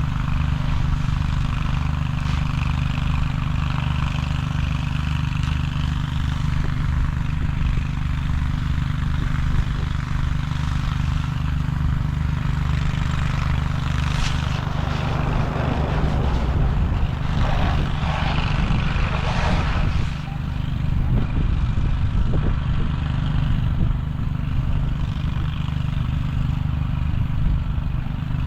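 An engine running steadily at an even speed, a low constant drone. About fourteen seconds in, a stretch of higher, rougher noise rises over it for several seconds, then fades.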